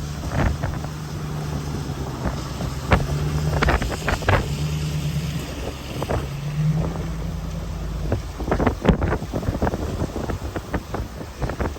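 Strong wind buffeting the microphone in gusts, over a steady low engine hum that shifts pitch slightly and fades out about eight seconds in.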